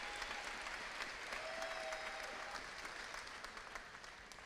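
Audience applause in a large room after a name is called, starting right away and dying away toward the end.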